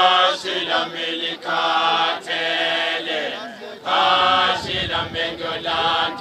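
A group of voices chanting together in unison, in held phrases of about a second each.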